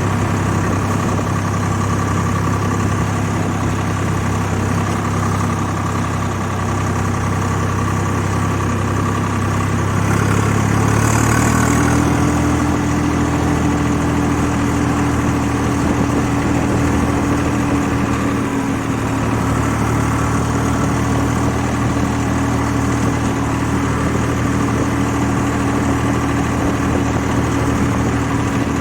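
Swaraj 855 FE tractor's three-cylinder diesel engine running steadily. About ten seconds in its note changes to a higher, steady tone and holds there.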